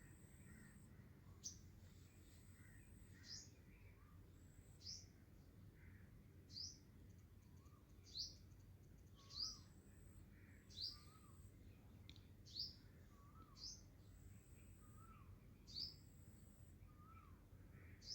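A small bird chirping faintly and repeatedly, about eleven short, high, downward chirps roughly one every second and a half, over a faint low hum.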